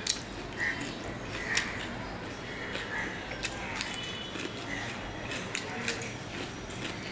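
Mouth-close eating sounds of raw cucumber slices being bitten and chewed: short crisp crunches and wet clicks coming irregularly.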